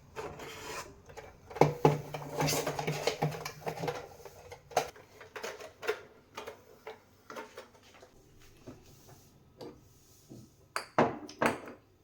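Dishes and cutlery being handled in a kitchen: irregular clinks, clatters and knocks, busiest in the first few seconds, then sparser, with a couple of louder knocks near the end.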